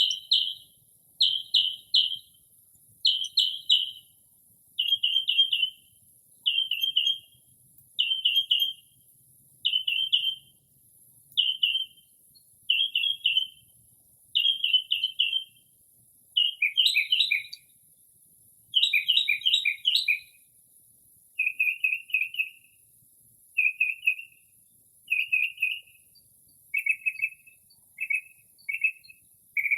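Northern mockingbird singing, a string of short phrases of rapid repeated notes, one phrase about every one and a half seconds. About two-thirds of the way through it switches to a lower pitched phrase, and the phrases come shorter and quicker near the end.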